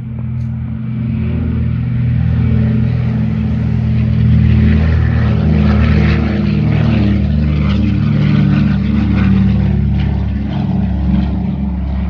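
Propeller aircraft's piston engine running steadily and loudly, heard close up, with a slight wavering in its pitch.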